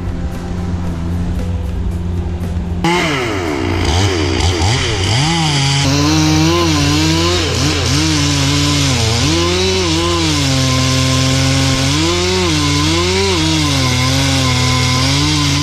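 Chainsaw running, its engine note rising and falling over and over as the throttle is worked during a cut; the first three seconds are steadier and quieter before the revving starts.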